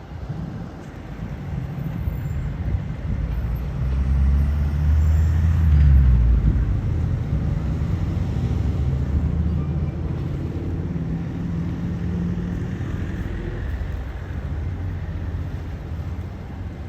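An engine running with a low rumble that swells to its loudest about four to six seconds in, then settles to a steady drone.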